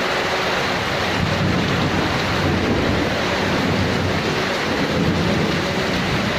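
Heavy rain pouring steadily in a thunderstorm: an even, continuous hiss with a low rumble underneath.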